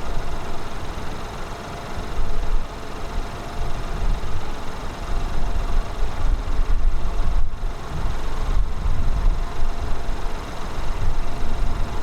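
An Airbus A320's jet engines rumbling low and unevenly as the airliner lands, with a faint steady whine above the rumble.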